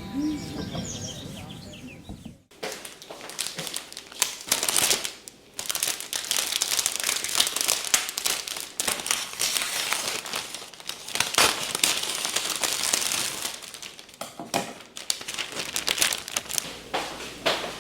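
Crinkly wrapping being handled and crumpled: a dense, irregular crackling that starts about two and a half seconds in and goes on in uneven waves.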